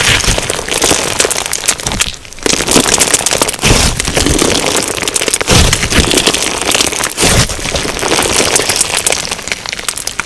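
Crunchy slime packed with sugar beads being squeezed and pressed by hand, giving a dense, continuous crackling and popping as the beads shift and crunch, with a few short pauses between squeezes.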